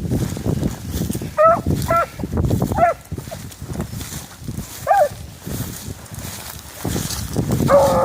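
Rabbit hounds giving four short yelping barks, and a longer bay beginning near the end, over wind rumbling on the microphone.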